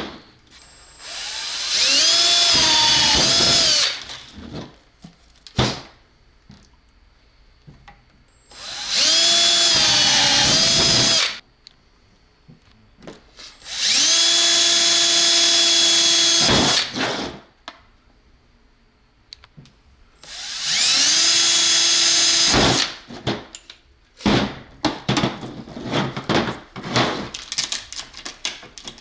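Electric drill boring holes in a plastic poly box, run in four bursts of a few seconds each. Each burst spins up to a steady whine that dips in pitch as the bit bites. After that comes a string of light clicks and knocks as the parts are handled.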